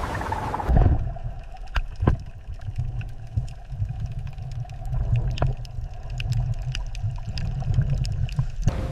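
Deep, low underwater-style water rumble with many scattered sharp clicks and pops, which starts abruptly about a second in, replacing a rushing surf-like noise.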